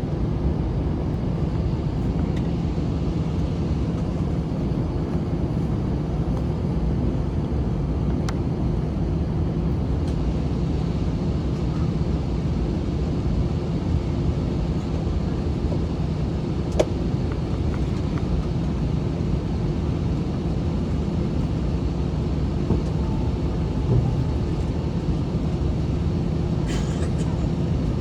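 Airbus A321 jet engines running at low power as the airliner moves on the ground, heard from inside the passenger cabin as a steady, even hum and rumble. A couple of faint clicks come from the cabin.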